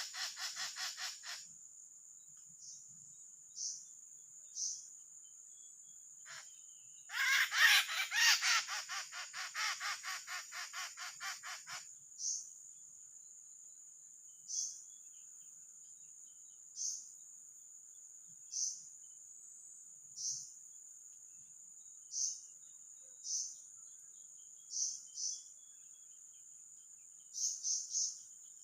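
A captured drongo (srigunting) gives harsh, rapid screeching distress calls in hand. A brief run fades out just after the start, and a louder burst of about ten calls a second comes about seven seconds in and dies away over some five seconds. Under it runs a steady high insect whine, with short falling chirps about every two seconds.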